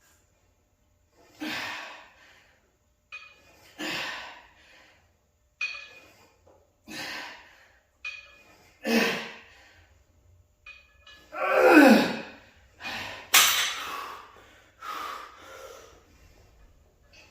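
A man breathing hard with effort: about nine forceful, gasping breaths and straining grunts one to two seconds apart, from heavy triceps exercise. The loudest, a little before two-thirds of the way through, is a groan falling in pitch.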